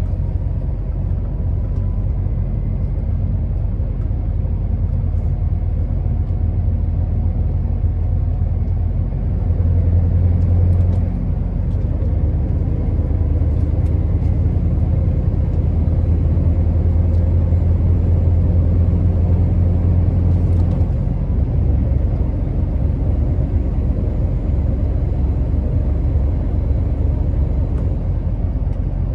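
Scania R650's 16-litre V8 diesel running under way, a steady low drone. The engine note grows stronger briefly about ten seconds in, and again for about six seconds from around fifteen seconds.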